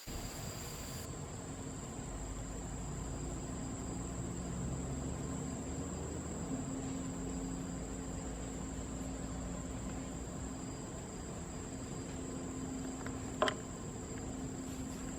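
Steady high-pitched drone of forest insects over a low background hum, with one short sharp sound near the end.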